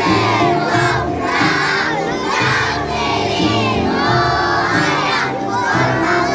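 A large group of children singing loudly together over backing music.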